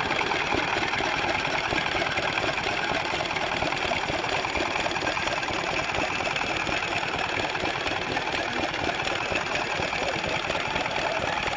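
Vintage stationary-engine-driven machinery running with a steady, rapid mechanical clatter.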